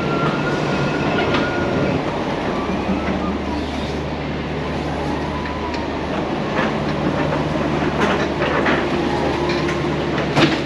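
Steady engine or machinery hum running throughout, with scattered knocks and clanks from about eight seconds in, the loudest just before the end.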